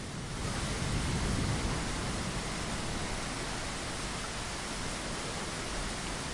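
Steady rain pattering against a window pane, an even hiss that swells slightly about half a second in and then holds steady.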